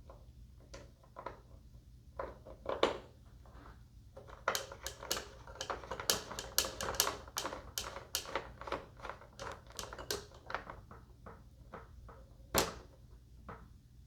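Hand-handled model parts clicking and rattling: scattered clicks, then a dense run of rapid clicks for several seconds, and one sharp knock near the end.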